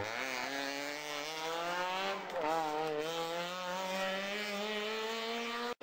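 Rally car engine accelerating hard out of a hairpin: its pitch climbs steadily, drops briefly at a gear change a little over two seconds in, then climbs again through the next gear. The sound cuts off abruptly near the end.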